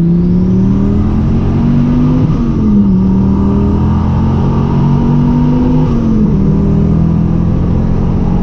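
Twin-turbocharged Dodge Viper's V10 engine under hard acceleration, heard from inside the cabin. It pulls through the gears: the engine note climbs, drops at an upshift about two and a half seconds in, climbs again, drops at a second upshift about six seconds in, then climbs once more.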